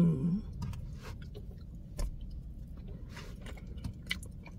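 A person chewing soft food with the mouth closed, with scattered small wet mouth clicks. There is a short hummed "mm" right at the start.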